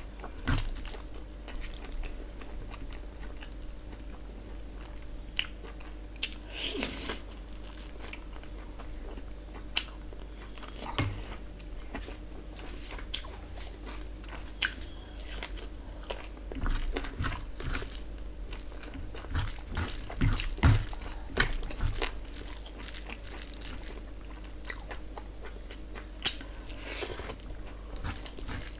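Close-up eating sounds of a person chewing mouthfuls of rice and mutton curry eaten by hand, with irregular sharp clicks and smacks. A faint steady hum sits underneath.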